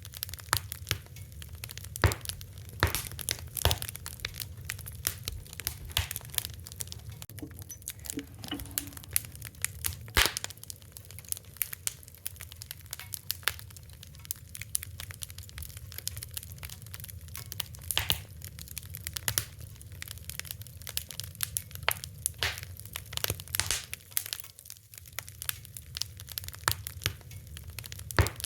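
Fire crackling: irregular sharp pops and snaps over a steady low rumble, with a few louder cracks about two seconds in, around ten seconds and around eighteen seconds.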